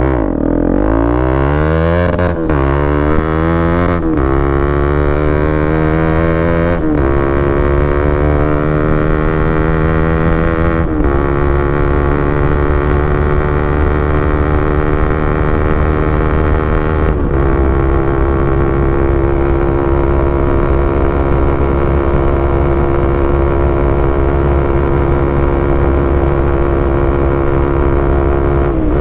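Bajaj Pulsar NS200's single-cylinder engine through a loud aftermarket exhaust, accelerating hard up through the gears. The pitch climbs in each gear and drops at each of about five upshifts, the gears lasting longer each time. For the last ten seconds or so it holds a steady high cruise.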